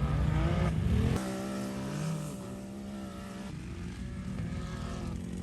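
Off-road vehicle engines running. About a second in the sound changes abruptly from a louder, rougher engine noise to a steadier engine drone.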